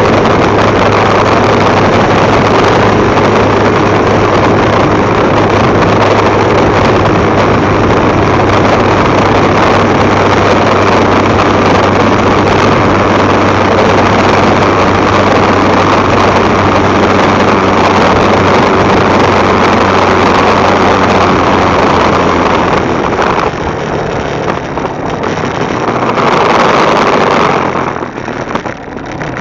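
Motorbike engine running steadily while riding, with loud wind rush on the bike-mounted microphone. Late on the sound eases off, swells briefly, then drops again near the end as the bike slows.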